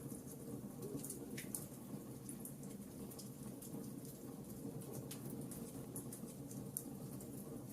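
Wood fire in a fireplace crackling: a steady low burning hiss with irregular small pops and snaps, a few sharper ones about a second and a half in and about five seconds in.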